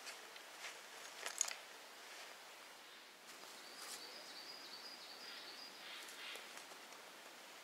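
Faint outdoor ambience: a few light clicks or rustles about a second in, then a thin, steady high-pitched tone lasting a couple of seconds in the middle.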